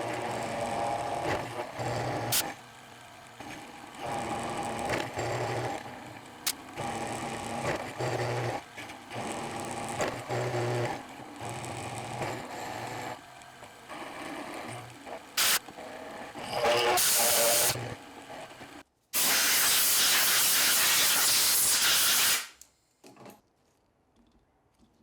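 Milling machine cutting the mouth slot in a steel hand-plane sole, its motor and cutter running in a string of short stretches with breaks between. Near the end comes a loud steady hiss lasting about three seconds, the loudest sound here.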